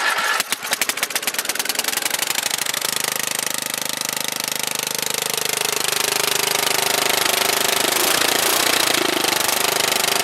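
Vintage lawn tractor's single-cylinder engine running loud, its exhaust shooting flames. It fires unevenly at first, then about three seconds in settles into a faster, steady run.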